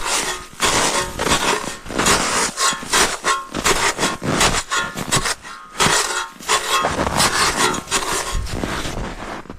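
Repeated uneven scraping and rubbing strokes, something hard being scraped and dragged over wood or packed snow by hand, done without a shovel.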